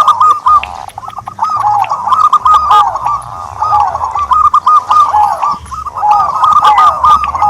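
Doves cooing: a dense, continuous run of short, arched notes repeating several times a second, with phrases overlapping one another.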